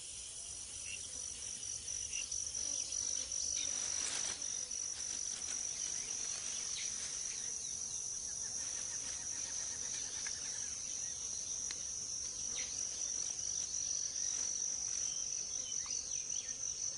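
Rainforest insect chorus: a steady high-pitched trill, with faint scattered chirps and calls of other insects.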